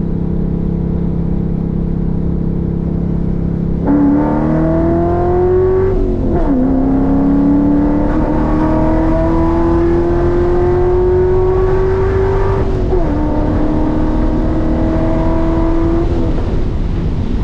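Roush Mustang's engine heard from inside the cabin: steady cruising, then a few seconds in the throttle opens and the engine note gets louder and climbs in pitch. The pitch drops sharply at two upshifts, climbing again after each, before the note holds steady and eases off near the end.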